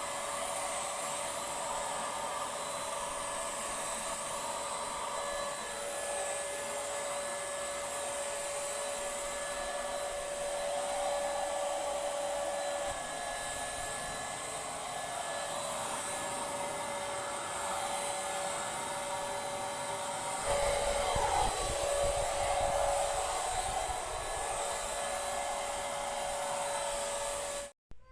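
Paint Zoom handheld electric paint sprayer running steadily, its motor giving a steady whine over the hiss of air and spray, then switched off abruptly near the end.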